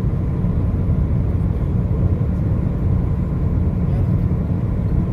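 Steady low road rumble of a car driving along the highway.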